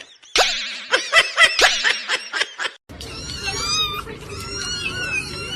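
A quick run of sharp, clicky sounds with wobbling pitch, then after an abrupt cut an animal's drawn-out, wavering calls over a noisy background.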